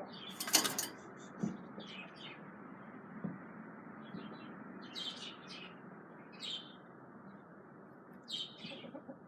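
Female budgerigar giving short, scattered chirps every second or two, the loudest just after the start, over a steady background hiss.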